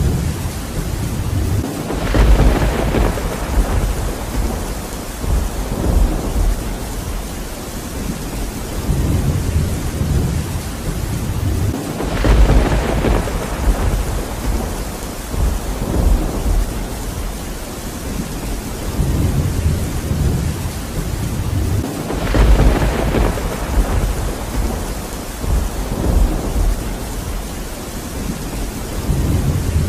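Steady heavy rain with rolling thunder: three rumbles about ten seconds apart, each swelling up and fading over a few seconds.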